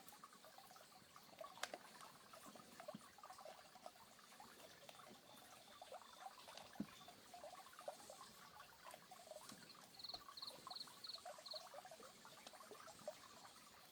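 Faint lakeside ambience of frogs calling, many short croaking notes overlapping. About ten seconds in, a quick run of five high chirps.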